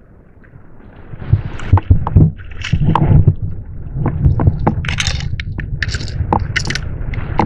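Irregular knocks, bumps and scrapes on a plastic fishing kayak as a caught barracuda is handled aboard, over a low rumble and some water sloshing. The knocking starts about a second in.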